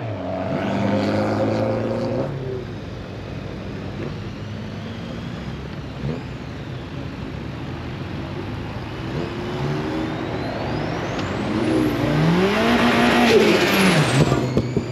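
Classic cars driving past one after another, their engines running. Near the end one car's engine revs up and eases off again as it passes close by.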